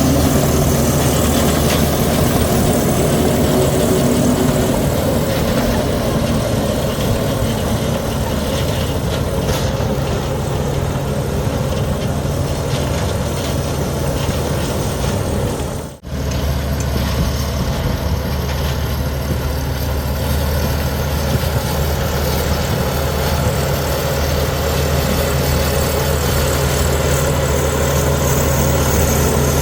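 Bulldozer's heavy diesel engine running steadily at a low, even pitch. The sound drops out for a split second a little past halfway, then resumes.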